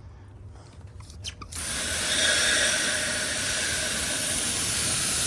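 A hose spray of water comes on suddenly about a second and a half in and runs as a steady hiss, likely washing the heat pump's coil and fan. A few light clicks come just before it.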